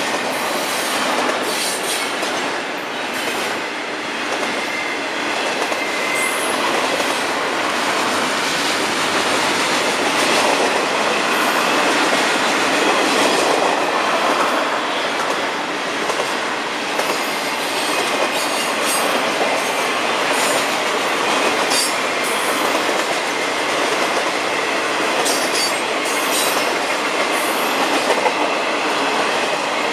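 Double-stack intermodal container cars of a long freight train rolling past close by: steady noise of steel wheels on rail, with clicks from the rail joints. Brief high wheel squeals come every few seconds, more often in the later part.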